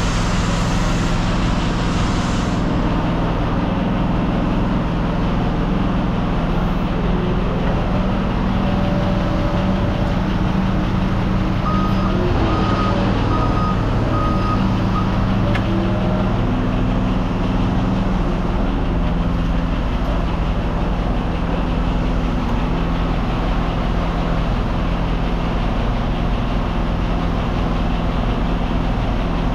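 A heavy vehicle engine running steadily at a low, even hum. Partway through, a reversing alarm gives a short run of beeps.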